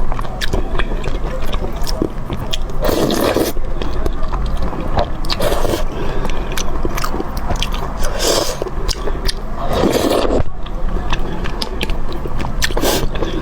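Close-miked eating: chewing and mouth sounds with many small clicks, utensils scraping against a dish, and a few louder half-second bursts.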